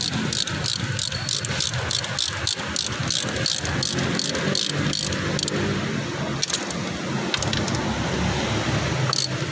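Toyota Vios engine running steadily. Sharp, fast ticking sits on top of it, about three ticks a second for the first five seconds or so, then only now and then.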